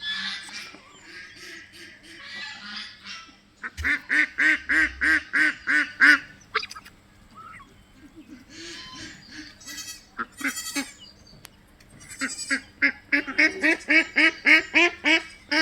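Domestic ducks quacking in fast runs of loud calls, about three a second, with softer calling between the runs.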